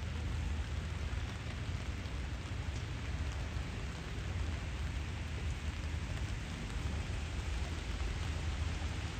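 Steady rain falling and pattering on surfaces, with a low steady rumble underneath.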